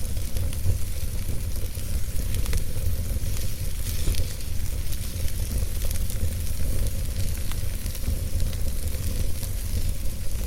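Wood fire burning in a fireplace: a steady low rumble of the flames with scattered sharp crackles and pops from the burning logs, and a faint hiss.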